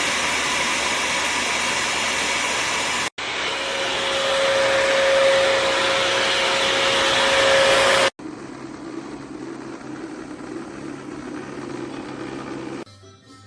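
Bissell CrossWave HydroSteam Pet wet-dry vacuum running steadily, cut off abruptly twice. A steady whine rides over the middle stretch, and the last few seconds are much quieter.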